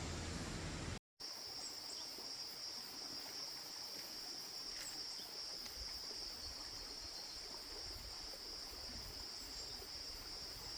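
Insects chirring in a steady high-pitched drone, coming in after a broad hiss and a brief cut to silence about a second in.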